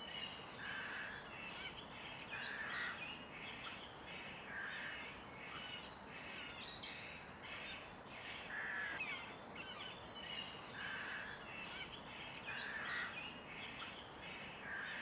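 Several small birds chirping and twittering in quick high notes, with a lower call repeating about once a second.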